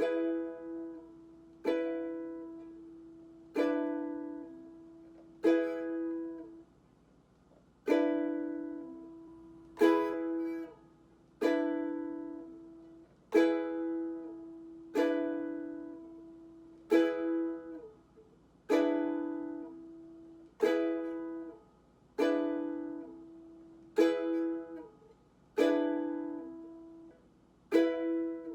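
Ukulele chords strummed slowly, one strum about every two seconds, each chord left to ring and fade before the next.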